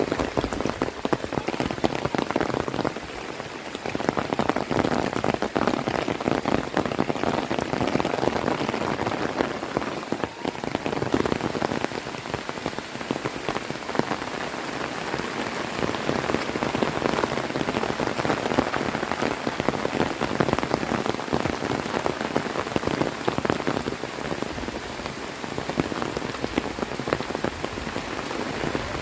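Heavy rain falling, a dense, steady patter of countless drops.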